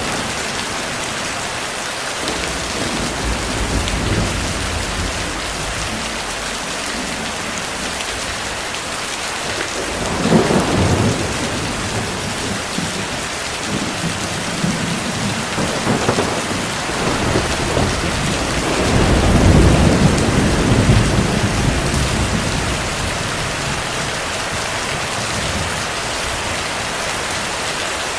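Heavy rain falling steadily, with rolls of distant thunder rumbling through it, the strongest about ten seconds in and again around twenty seconds in.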